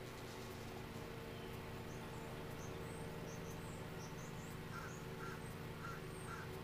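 Faint bird chirps over a steady low hum, with four short, evenly spaced calls near the end.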